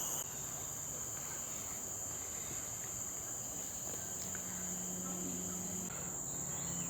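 Steady, high-pitched insect chorus of crickets or cicadas trilling without a break. A second, lower-pitched insect trill cuts off right at the start.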